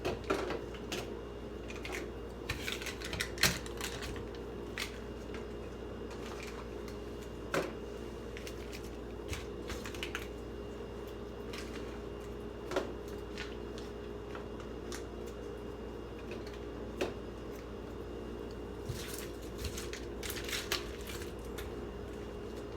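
Scattered light knocks and clicks of bottles, jars and packages being set down on refrigerator shelves, coming irregularly every few seconds over a steady low hum.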